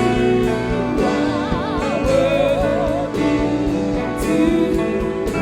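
Gospel worship music: wavering sung lines with vibrato over sustained keyboard chords and a steady beat.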